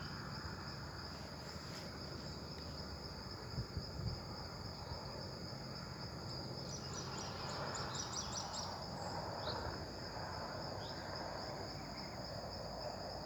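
Steady high-pitched insect chorus, with a short run of rapid chirps about seven seconds in and a few low knocks around the four-second mark.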